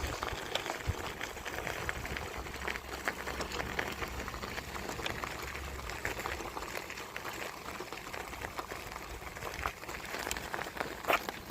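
Bicycle rolling along a path: a steady hiss of tyre noise full of small clicks and rattles, with a couple of sharper clicks near the end.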